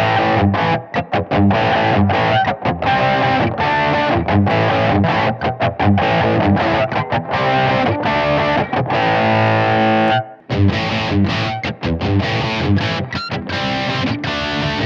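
Electric guitar played through the GigaGain Gianster Preamp high-gain distortion pedal: a choppy riff of short, heavily distorted notes and chords with many brief stops, breaking off for a moment about ten seconds in before carrying on.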